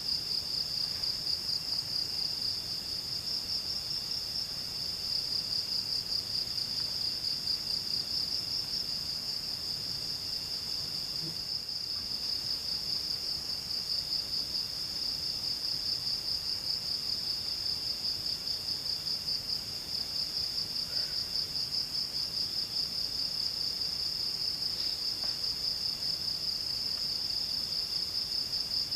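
Forest insects trilling in a continuous high-pitched chorus, one fast pulsing trill steady throughout, with a fainter second trill starting and stopping every second or two.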